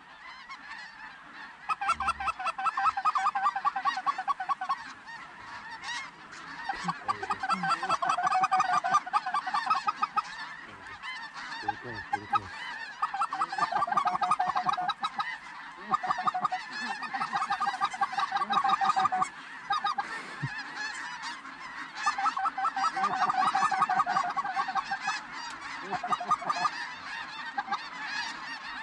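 Geese honking: a dense chorus of rapid, high-pitched calls coming in runs of a few seconds with short lulls between.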